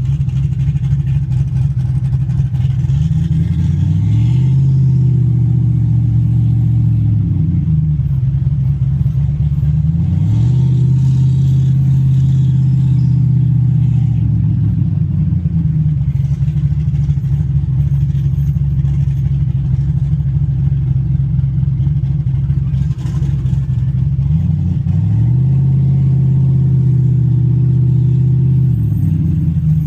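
Car engine running while driving, its note rising and holding three times as the car pulls away or speeds up, then dropping back to a lower, steady note between.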